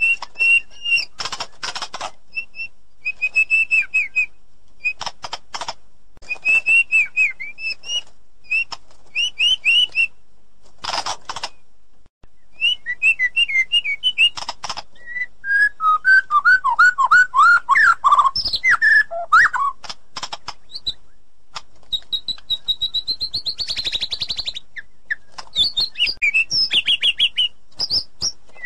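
White-rumped shama singing a varied song in bursts: clear whistled phrases, harsh rasping notes and quick slurred runs of falling notes, with a long trilled note near the end.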